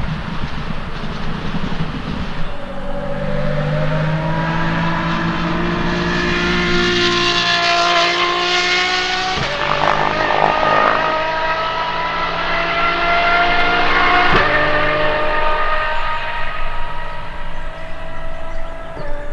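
Apollo Intensa Emozione's naturally aspirated V12 at full throttle, its pitch climbing steadily through the revs with sharp breaks at gear changes about nine and fourteen seconds in. The high notes fade near the end as the car moves off.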